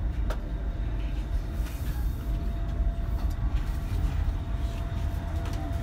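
Passenger train in motion, heard from inside the carriage: a steady low rumble, with a sharp click just after the start. A faint steady whine sets in about halfway.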